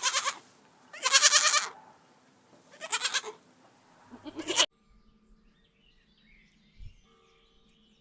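Goat bleating: four wavering bleats in quick succession.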